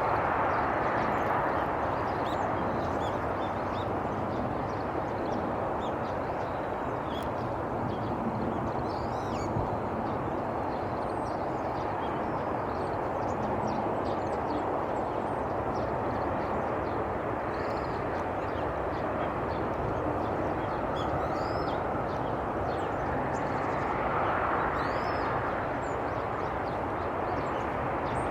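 Steady low rumble of distant traffic, swelling near the start and again about 24 seconds in, with faint high chirps of small birds scattered through.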